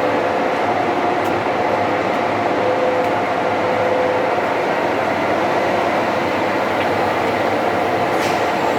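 Metalworking lathe running steadily while it machines a crankshaft supported in a steady rest, a continuous mechanical drone with a faint steady hum.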